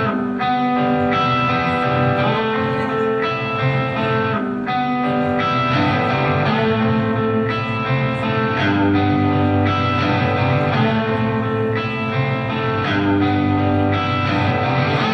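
Live electric guitar playing an intro of ringing, held notes and chords that change about every second.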